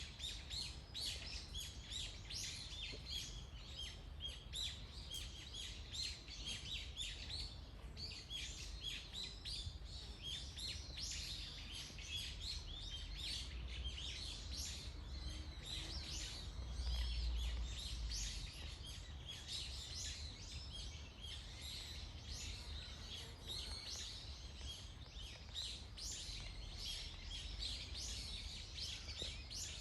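Several small songbirds chirping and calling continuously over a low background rumble, with a short louder rumble about halfway through.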